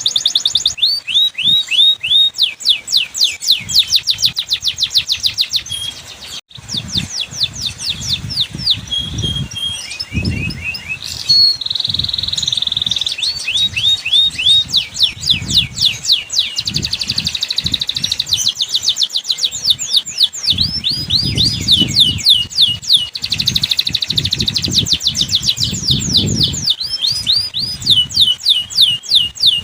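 Canary singing long, rapid trills of repeated downward-sweeping notes, changing from one trill to another every few seconds, with a brief break about six seconds in.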